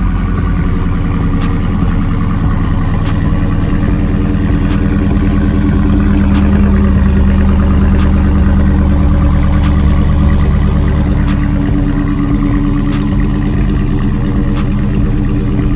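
A 2020 Dodge Charger Scat Pack's 392 Hemi V8 idling steadily on its stock exhaust, mid mufflers still fitted, at a cold-start idle. The low note eases down about two-thirds of the way through.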